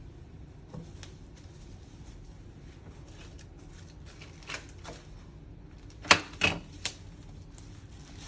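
Hard plastic diorama parts being handled and knocked together: scattered faint clicks, then three sharper clacks about six to seven seconds in.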